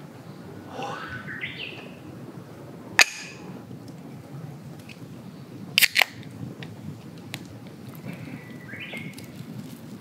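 Wild birds calling in woodland: a rising call about a second in and a stepped call near the end, over a steady low hush. A sharp click about three seconds in and two louder clicks close together around six seconds stand out as the loudest sounds.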